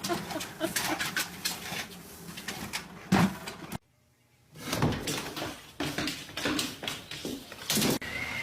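A run of short knocks and bumps, broken by a brief silence about four seconds in.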